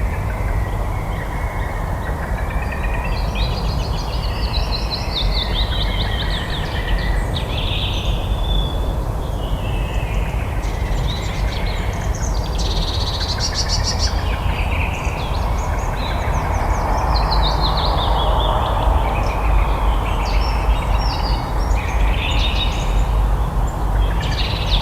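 Several birds chirping and trilling continuously in quick, overlapping high phrases, over a steady low rumble of background noise.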